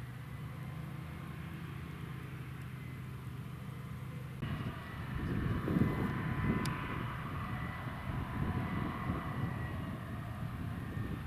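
Heavy farm machinery running steadily. About four seconds in it grows suddenly louder and rougher, with a steady high whine over the engine.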